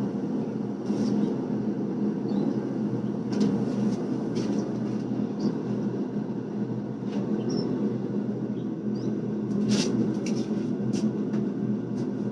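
Forge running with a steady low rush, with a few scattered sharp clicks over it.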